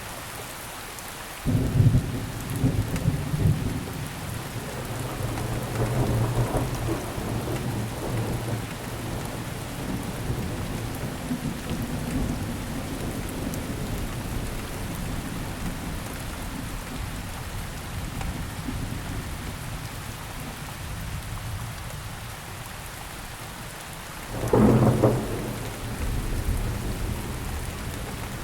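Steady rain falling, with thunder: a sudden clap about a second and a half in that rumbles on for about ten seconds, and a second sharp clap near the end.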